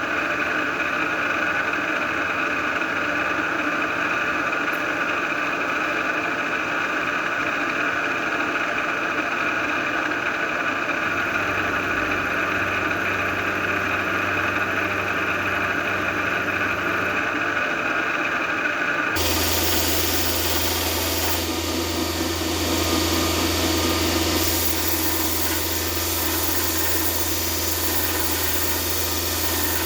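Steady machine drone with several held tones. About two-thirds of the way through it cuts off abruptly, and a louder steady hiss over a low hum takes its place.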